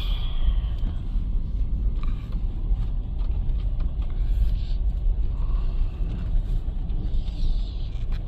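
Car driving slowly, a steady low rumble of engine and tyres.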